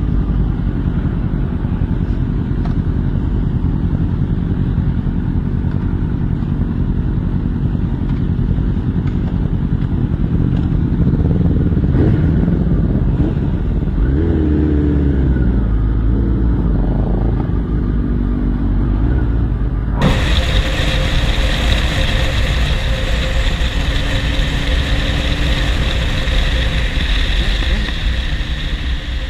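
Motorcycle running on the road, heard from an on-board camera with a heavy low rumble on the microphone. About twenty seconds in, the sound changes abruptly as a different ride recording begins.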